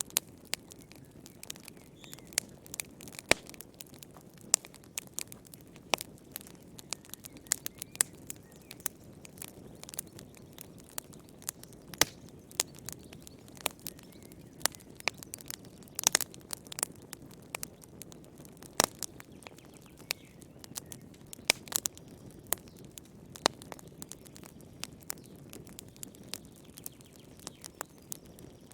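Wood fire in a fireplace crackling, with sharp irregular pops and snaps over a soft low rush of flames.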